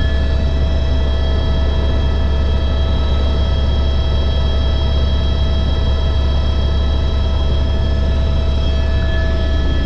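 Helicopter in flight: a steady loud drone of the rotor and turbine, with a deep hum underneath and several high whining tones held constant above it.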